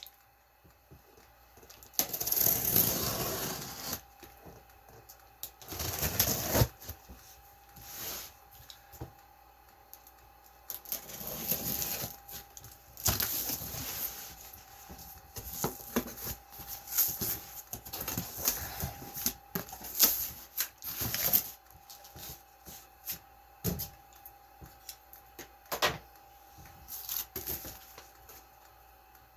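Cardboard shipping box being opened and unpacked by hand: irregular rustling, scraping and tearing of cardboard and packing, with scattered clicks and knocks. A faint steady hum runs underneath.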